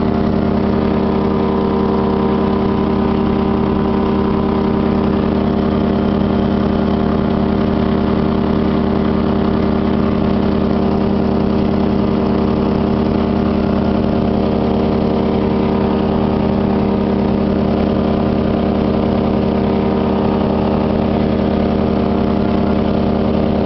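Airplane engine droning at a steady pitch, heard from inside the cabin in flight.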